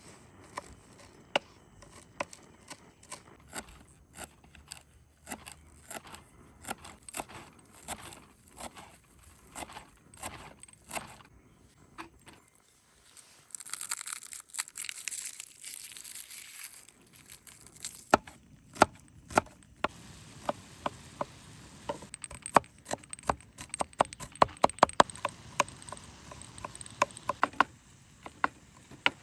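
Irregular sharp clicks and knocks, with a few seconds of hissing about halfway through, followed by a denser, louder run of clicks.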